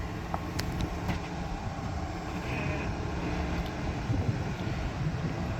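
Jeep Wrangler JK Unlimited Rubicon's engine running at low revs as it backs up on a rocky trail: a low, steady rumble with a few faint clicks.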